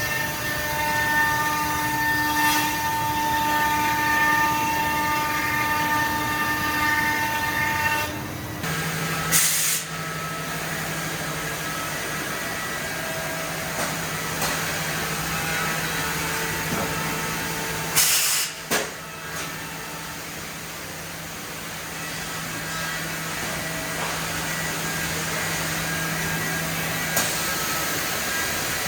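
HOMAG Optimat BAZ 211 Venture 21L CNC machining centre running: a steady mechanical whine whose pitch changes about eight and a half seconds in, with two short blasts of compressed-air hiss, one near ten seconds and one near eighteen seconds.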